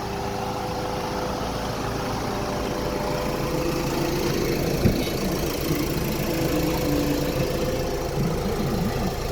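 Mitsubishi Canter truck's diesel engine idling steadily, with one sharp click about halfway through.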